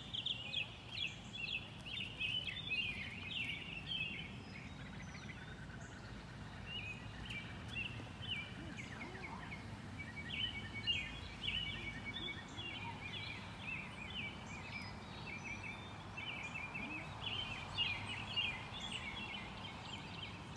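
Birds chirping and trilling, many high notes overlapping without a break, over a steady low background rumble.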